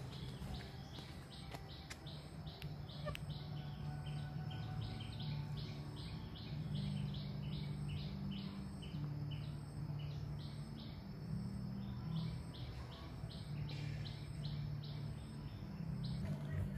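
A bird calling over and over in short falling chirps, about two a second, with a brief pause midway, over a low rumbling background.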